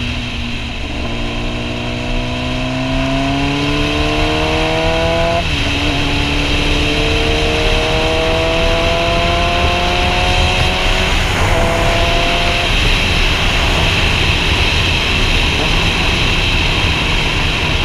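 Sportbike engine pulling under throttle, its pitch climbing slowly and dropping at a gear change about five seconds in and again about eleven seconds in. Soon after, the engine tone fades under steady wind rush on the helmet-mounted microphone.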